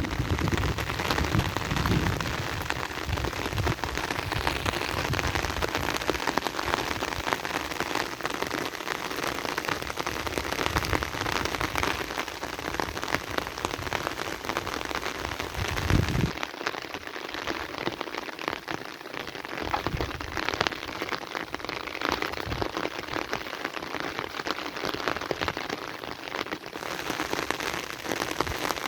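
Heavy rain falling steadily, a dense patter of drops. A low rumble runs under it through the first half and cuts off suddenly a little after halfway.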